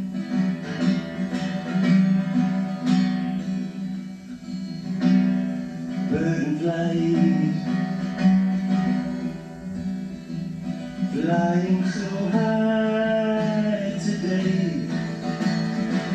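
Acoustic guitar playing a live song intro, with a voice gliding through wordless singing twice, about six seconds in and again about eleven seconds in.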